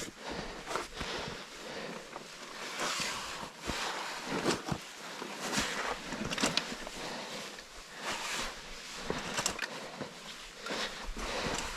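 Irregular scuffs and knocks of footsteps and handholds on rock, coming unevenly several times a second with a few sharper knocks.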